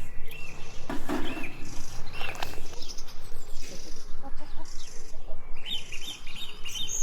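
Small birds chirping in short, arched notes, with a quicker run of repeated chirps in the second half, over a constant background noise.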